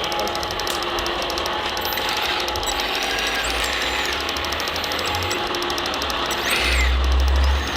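Small electric motors and gearing of radio-controlled hydraulic construction models running, a dense mechanical whirring with fine rapid ticking. Near the end a louder low hum and a whine that rises and falls come in for about a second, as a motor or pump works harder.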